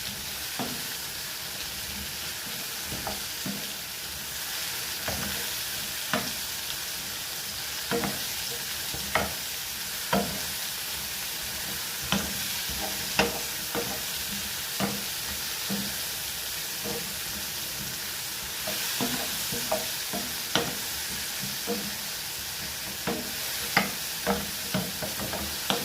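Food sizzling in a frying pan while it is stirred, with a utensil knocking and scraping against the pan about once a second, more often near the end.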